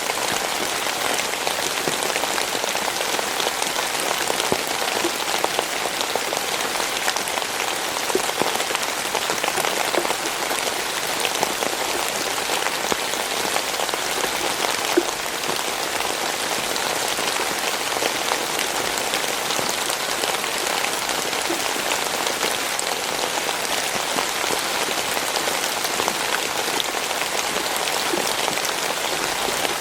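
Steady rain falling on a surface: an even hiss with many close, fine drop ticks.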